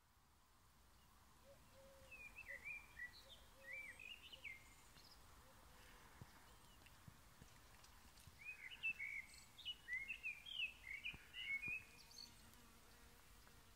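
Faint songbird singing: two bouts of quick, chirpy, warbling phrases, one starting about two seconds in and another about eight seconds in.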